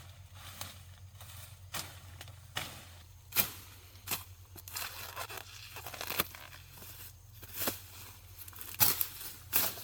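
Irregular tearing and crackling with about a dozen sharp snaps, the loudest near the end.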